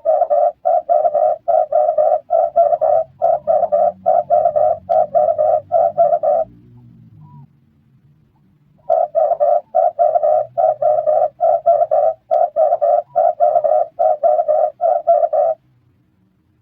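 Red turtle dove calling: two runs of rapid, evenly repeated low cooing notes, about two and a half a second, each run lasting about six seconds with a pause of a couple of seconds between.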